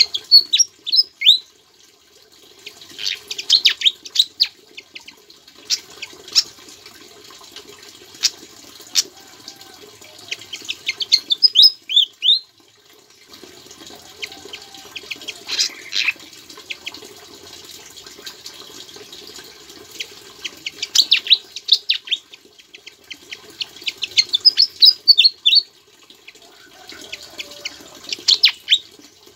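A sikatan jawa songbird singing in short bursts of rapid, high chirps and sweeping notes every few seconds. Some of its phrases are mimicked from the bar-winged prinia (ciblek). The song is heard over a steady hiss.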